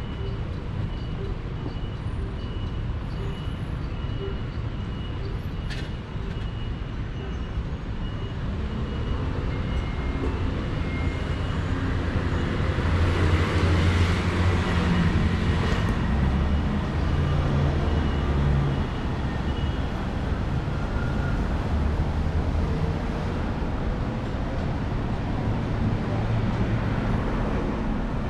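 City street traffic: a steady low rumble of vehicles, with a motor vehicle passing close by about halfway through, louder for several seconds before fading back.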